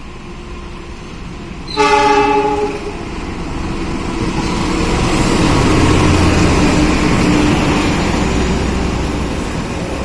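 A locomotive horn sounds one blast about two seconds in, lasting about a second. It is followed by the rumble and rattle of the train, which grows louder as it comes through the station and eases slightly near the end.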